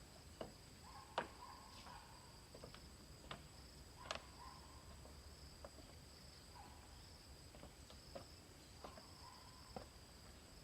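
Faint, steady high-pitched insect trill from crickets or similar insects, with scattered light clicks and knocks, about one a second, over it.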